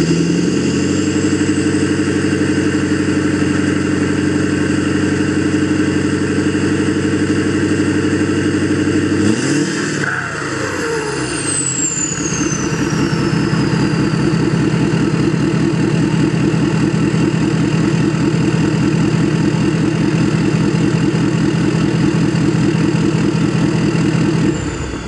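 Ford 6.7 Power Stroke V8 turbodiesel running steadily. About ten seconds in the engine note dips briefly while a high whistle falls away in pitch, then it runs on at idle and stops abruptly near the end.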